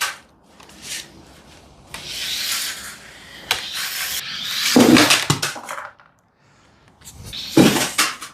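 Small RC buggy driving on a hard indoor floor, its tyres scrabbling and its motor whirring, with hard knocks as it hits the wall and jump, the loudest about five seconds in and again near the end.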